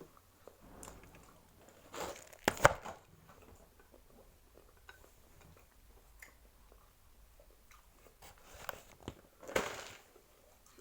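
A person chewing and crunching on KFC fried chicken at close range. There is a sharp knock about two and a half seconds in and a short, louder crunching rustle near the end.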